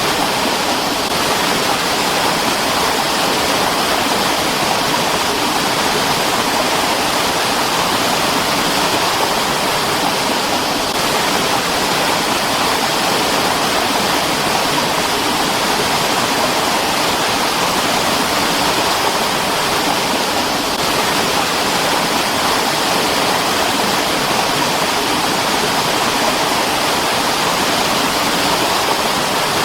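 Mountain stream running steadily over rocks: an even, unbroken rush of water.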